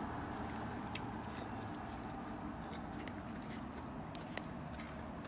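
Close chewing of a spoonful of bibimbap: small, irregular wet clicks over a steady hum of city traffic.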